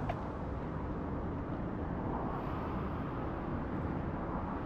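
Steady low rumble of wind buffeting and handling noise on the microphone of a camera carried by a runner, with one faint click just after the start.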